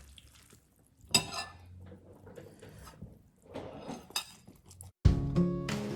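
Cutlery and dishes clinking and clattering, with two brighter ringing clinks about a second in and about four seconds in. Acoustic guitar music starts abruptly near the end.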